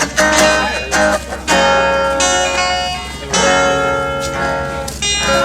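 Live acoustic guitar playing the closing bars of a song: a few quick strums, then three chords struck and left to ring out, the last coming near the end.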